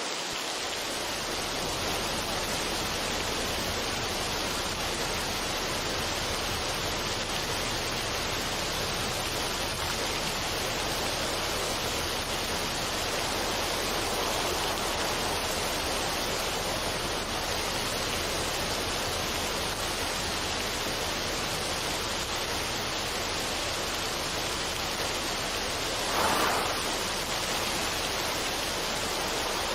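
Steady, even rushing noise without pitch or rhythm, like running water or a noise generator, swelling briefly near the end.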